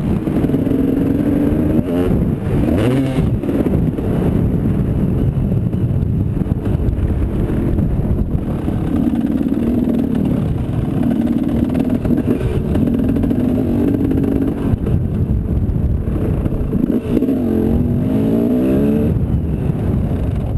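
Motocross motorcycle engine revving, its pitch climbing and dropping again and again as the bike accelerates and shifts, over a heavy low rumble.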